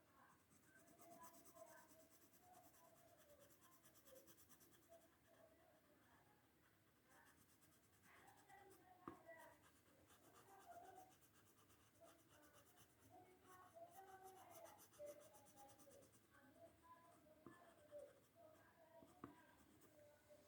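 Faint, squeaky strokes of a colouring pen rubbing back and forth on paper as an area is filled in red.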